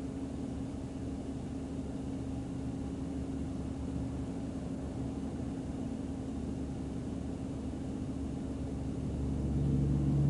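Steady vehicle rumble with a constant hum, heard from inside a patrol car. It swells near the end as a second, lower tone comes in.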